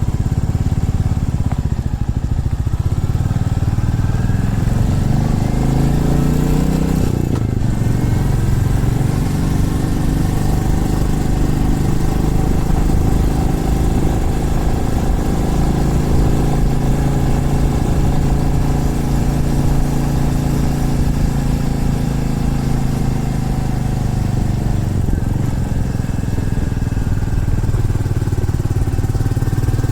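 Single-cylinder motorcycle engine pulling away, its pitch rising as it revs through the first gear. There is a gear change about seven seconds in, and then it runs at a steadier, gently rising and falling speed.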